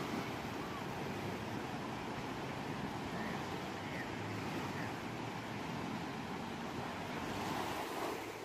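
Sea waves washing steadily onto a shore, a continuous rushing surf that swells a little louder near the end.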